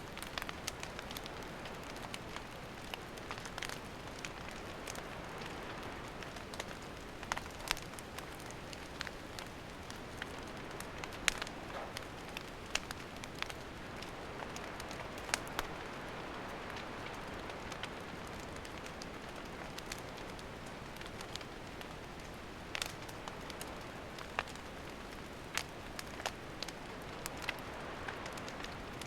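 Wood campfire burning, with a steady hiss and irregular sharp crackles and pops from the burning wood.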